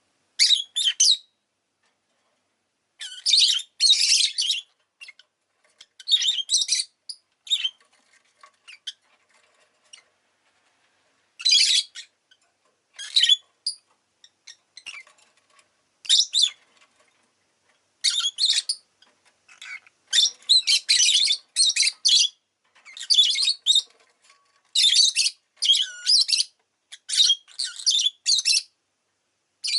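Rosy-faced lovebird giving bouts of shrill chirps and squawks, irregular clusters of short calls with pauses between, busier in the second half.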